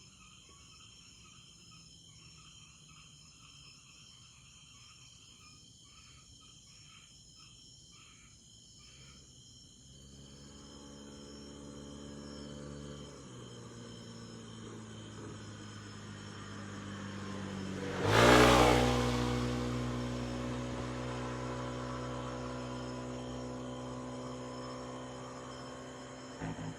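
Faint crickets chirping, then about ten seconds in a vehicle engine starts running steadily and shifts pitch. About eighteen seconds in it revs sharply and loudly, then keeps running at a higher, steady level.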